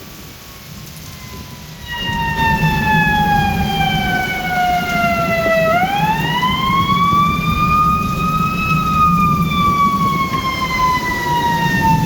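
Siren wailing: its pitch falls slowly for about four seconds, swings back up over about three, then falls again. It gets markedly louder about two seconds in, with a low hum underneath.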